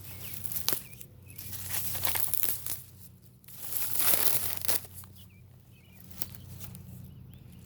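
Rustling, crinkling handling noise in two longer bursts, with a few sharp clicks.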